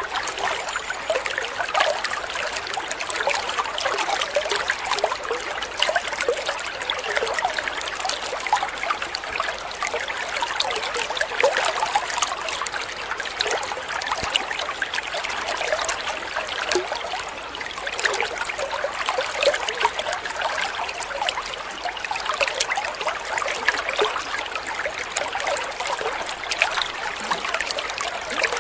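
Water trickling and babbling steadily over stones in a small stream.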